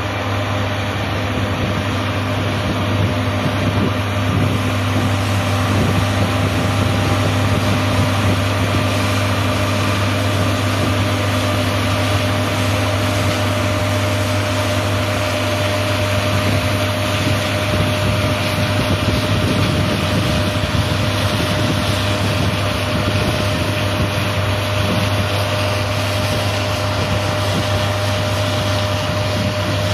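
John Deere S780 combine harvester running steadily while harvesting, a constant low engine hum under an even mechanical rush, with a steady higher whine from its machinery.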